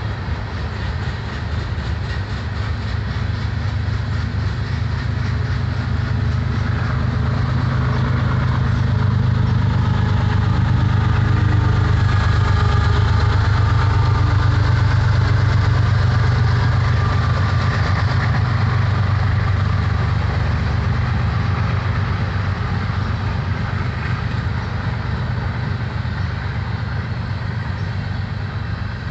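Freight train rolling past with a mid-train distributed-power diesel locomotive pulling hard. The locomotive's engine drone builds to its loudest about halfway through as the unit passes, then fades back into the steady rumble of the rolling freight cars.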